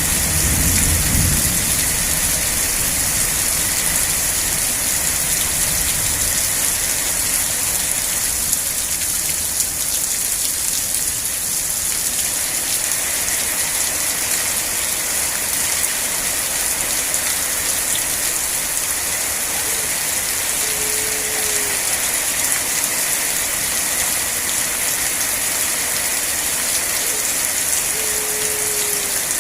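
Steady rain falling hard, an even hiss, with a low rumble of thunder dying away in the first couple of seconds. Twice in the second half a short, faint, slightly falling low tone sounds.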